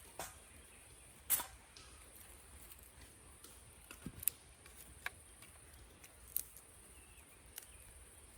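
Campfire wood crackling: a handful of sharp, irregular snaps over a faint steady high-pitched insect chirr.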